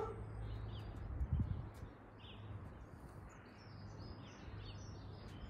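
Outdoor background with small birds chirping repeatedly, short high chirps coming more often in the second half, over a low hum that fades about two seconds in.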